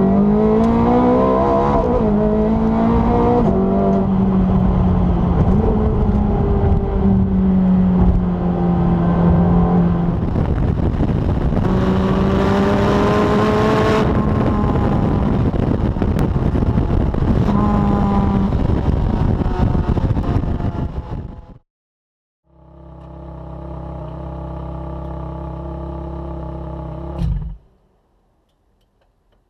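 Ferrari 430 Scuderia's V8 engine accelerating, its pitch climbing and stepping at quick gearshifts, then running on under load for about twenty seconds. After a brief gap it idles steadily at a lower level, then cuts off with a click near the end.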